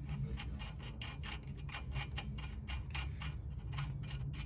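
Ratchet wrench clicking steadily, about five clicks a second, as a new castle nut is run onto a tie rod end stud.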